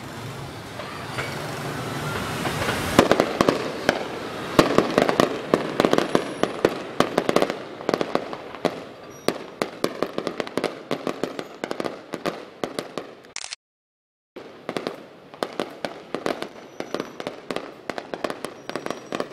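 Fireworks display: a rising hiss over the first three seconds, then a dense run of sharp bangs and crackles to the end. The bangs are broken by a brief dropout to silence about two-thirds of the way through.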